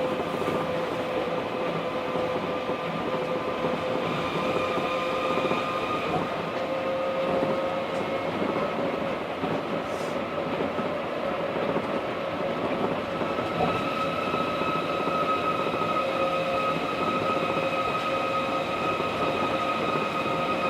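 Osaka Monorail 1000-series train running at speed between stations. A steady rumble runs under a steady whine from the drive, and the whine grows a little stronger about four seconds in and again about two-thirds of the way through.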